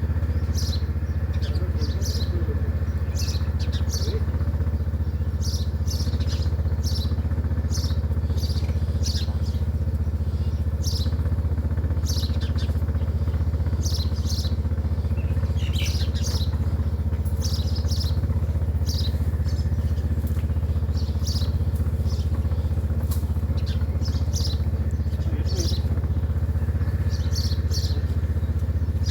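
A bird chirping over and over in short high calls, often in pairs, every second or so, over a steady low hum.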